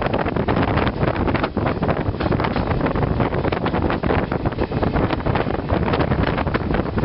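Passenger express train coaches rolling past close by as the train rounds a curve: a loud, steady rumble full of rapid wheel clatter and knocks, with wind buffeting the microphone.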